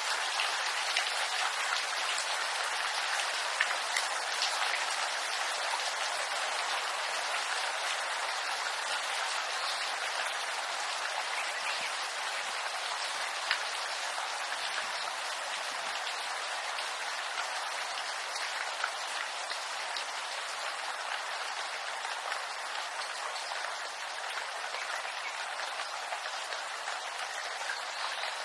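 Steady rain falling in a bamboo grove: an even hiss of drops on the leaves, with now and then a single louder drop.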